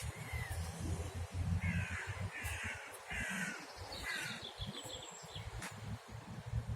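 A crow cawing four times in quick succession, harsh calls about two-thirds of a second apart, followed by a small bird's rapid high trill.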